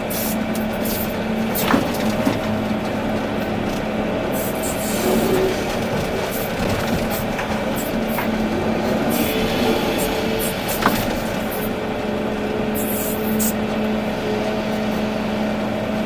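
Volvo EC380D excavator's diesel engine running steadily, with a sharp knock about two seconds in and another near eleven seconds.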